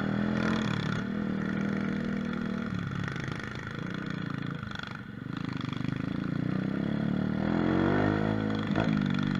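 Mini motorcycle (pit bike) engine running steadily while riding, easing off about five seconds in, then revving up and back down near the end.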